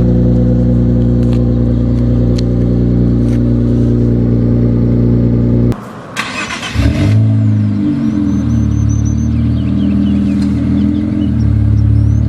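Infiniti Q50 3.0T's twin-turbo V6 through 3-inch downpipes and a 2.5-inch custom catback with a single resonator, idling steadily, then shut off about six seconds in. It is restarted within a second or so: a short crank, a flare of revs, then a raised idle that wavers before dropping back down near the end.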